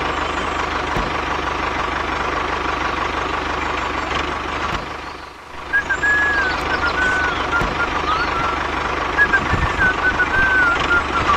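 A small engine running steadily with a fast, even pulse and a steady high whine. It dips briefly about five seconds in, and after that a high, warbling chirping sound rides on top of it.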